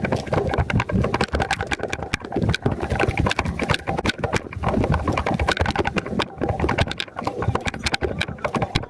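Small single-cylinder four-stroke motorcycle engine running, a steady clatter of quick irregular strokes.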